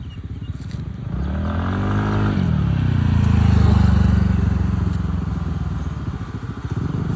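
Motorcycle engine revving up with rising pitch, dropping in pitch a little after two seconds, then running steady and loud before easing off.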